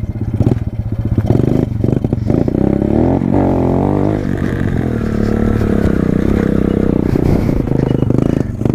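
Pit bike engine running under way: it chugs at low revs at first, then revs up and down in a few quick wavering pitch changes about three seconds in. The note then holds steadier and dips briefly near the end.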